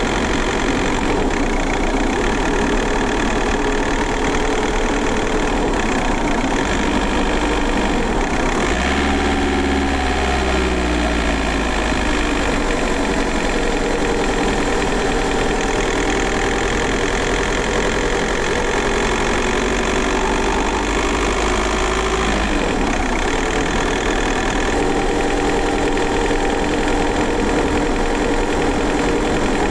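VW Golf 4 1.9 TDI four-cylinder turbodiesel (AJM) running under way, heard from inside the car. The engine note shifts with the revs, falling in pitch about ten seconds in and changing again past the twenty-second mark.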